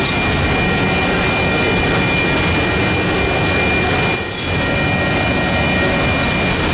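Freight train of autorack cars rolling through a grade crossing: a loud, steady rumble and rattle of wheels and car bodies, briefly easing a little past the middle as a gap between cars goes by. A steady high ringing tone from the crossing's electronic bell sounds over it.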